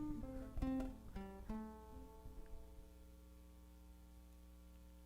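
Acoustic guitar picking a few closing notes, then the last chord left ringing and dying away as the song ends.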